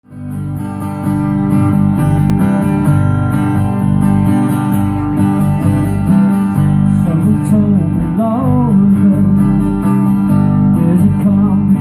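Live band playing a song intro, led by strummed acoustic guitar over bass. The music starts suddenly and swells to full level within the first second.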